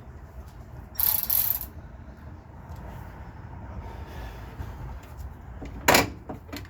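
Hand tools at work on a car's engine mount: a short rasping burst about a second in, then a sharp knock near the end with a fainter one just after.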